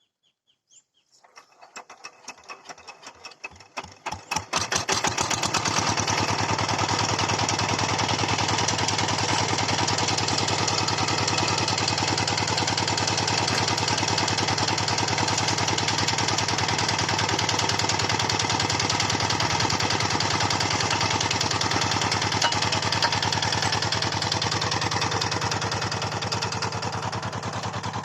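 Walk-behind hand tractor's small engine starting: a few uneven firing strokes come about a second in and quicken until it catches, then it runs steadily, easing off a little near the end.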